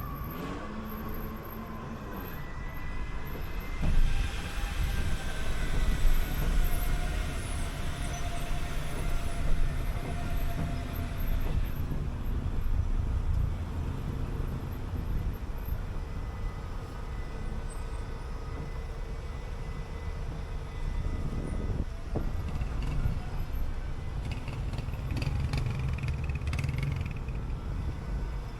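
City bus driving through traffic: a steady low engine and road rumble with a faint steady whine over it, and a few brief bumps.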